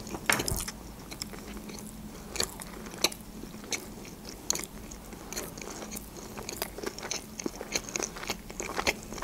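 Close-miked chewing of a sushi roll: irregular wet mouth clicks and smacks, several a second.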